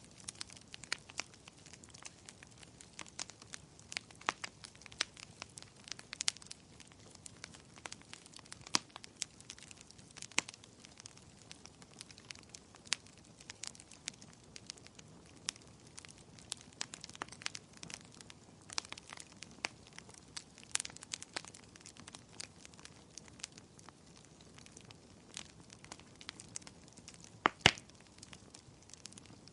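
Wood fire crackling in a fireplace: irregular sharp pops and snaps, a loud double pop near the end, over a faint steady hiss of rain.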